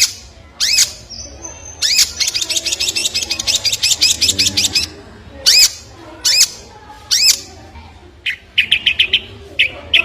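A bird calling in sharp, upswept whistled notes. A fast trill of about ten notes a second runs from about two to five seconds in. Near the end come quick series of short, lower notes.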